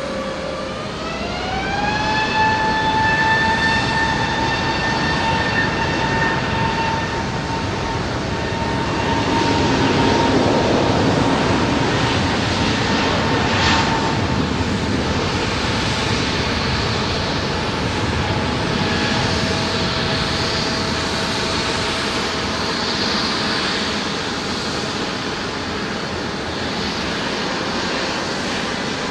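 Jet airliner engines spooling up: a whine rises in pitch over the first two seconds, then holds steady under a loud rushing noise that swells about ten seconds in.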